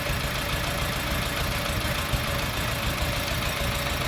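Car engine idling with a cylinder 2 misfire, running with an uneven low pulse. The misfire is traced to the valve lifters on cylinder 2 having come out.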